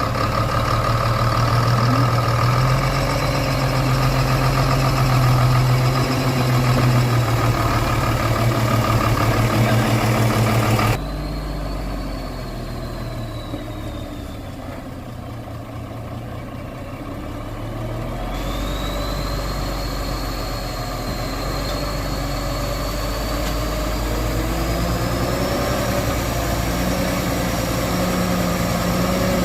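Heavy truck engine running steadily. About a third of the way in the sound drops abruptly to a quieter engine note with a high whine that wavers up and down in pitch, and the engine grows louder again toward the end.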